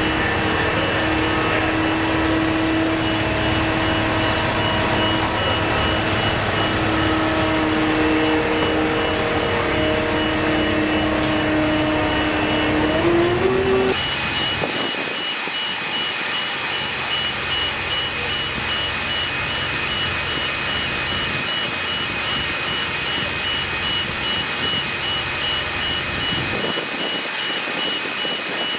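Heavy vehicle engine running, with a reversing alarm beeping steadily. The engine revs up briefly just before the sound changes abruptly about halfway through.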